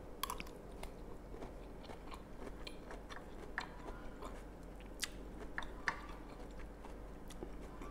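A person chewing a mouthful of fried bamboo shoots, with scattered small crunches and clicks.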